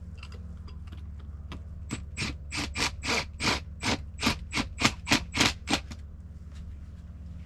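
Ratchet clicking in a quick, even run of about a dozen sharp clicks, some three a second, lasting about four seconds, as it loosens the band clamp on a Fernco rubber pipe coupling.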